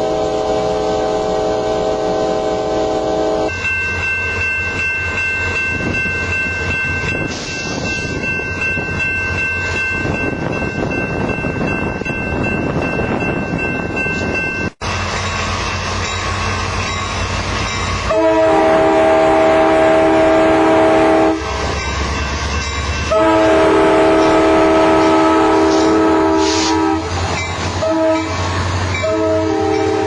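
Train horn sounding over the running noise of a train pulling into a station: two long blasts in the second half, followed by shorter ones near the end. Before that, steadier chords of tones sound over the rumble.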